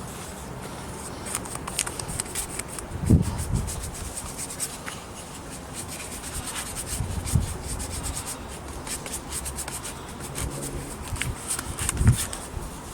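Quick, scratchy rubbing strokes over a wooden carving, as an oil finish is brushed into the wood, with a few soft knocks about three, seven and twelve seconds in.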